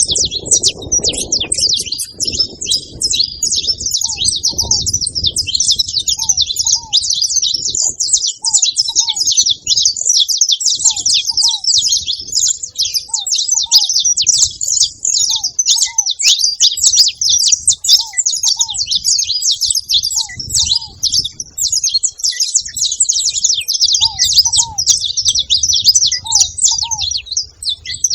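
A flock of saffron finches chirping in a dense, unbroken, overlapping chatter. Short paired lower notes repeat every second or two underneath.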